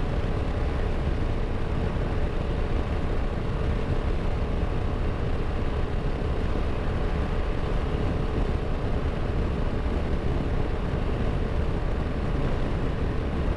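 Royal Enfield Himalayan 450's single-cylinder engine running steadily at cruising speed on the move, mixed with heavy rushing wind noise.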